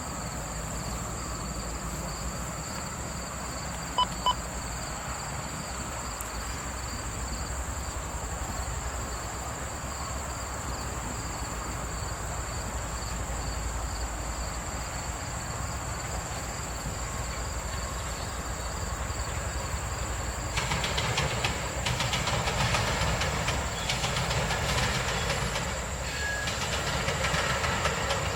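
Amtrak passenger train rolling past with a steady low rumble. From about twenty seconds in, the clickety-clack of wheels over the rail joints grows denser and louder. Two short high beeps sound about four seconds in.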